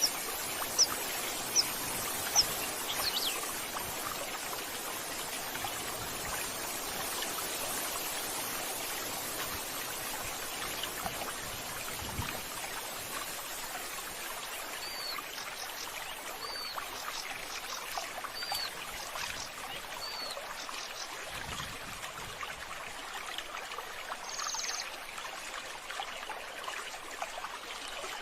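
Water running and trickling steadily, with a bird chirping: a few quick chirps near the start, and four repeated chirps about two seconds apart midway.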